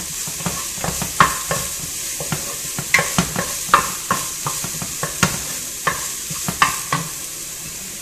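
Chopped onion and garlic sizzling in oil in a pot, stirred with a wooden spoon that knocks and scrapes against the pot in irregular strokes. The stirring stops near the end while the steady sizzle goes on.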